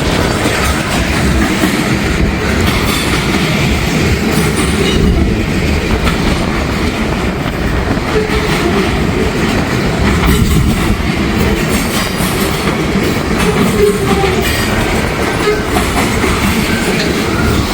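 Freight train cars rolling steadily past, their wheels running on the rails, with heavy wind buffeting the microphone.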